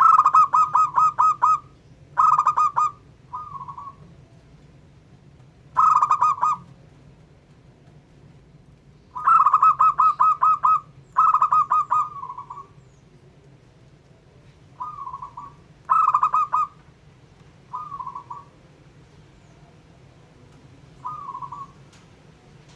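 Zebra dove (perkutut) calling: repeated phrases of rapid, pulsing coo notes, some long and some short, with pauses of a second or more between them. A faint low hum runs underneath.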